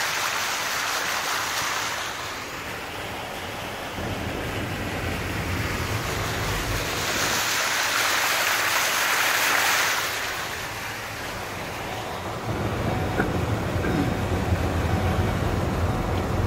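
A vehicle on a flooded road with a steady rush of water and spray. The rush swells loudest a little past the middle, over a low engine and tyre rumble that grows stronger in the last few seconds.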